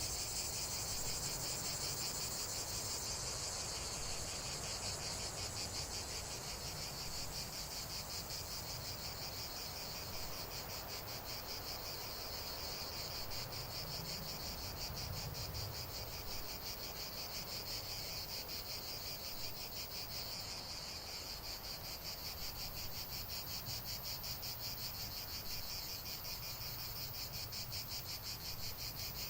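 Insects, likely crickets, chirping in a steady, rapid trill that continues without a break.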